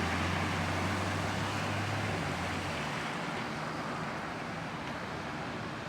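A lorry driving through deep floodwater: its engine runs with a low steady hum under a wash of water surging and sloshing. The engine hum drops out about three seconds in and the water noise fades as it moves off.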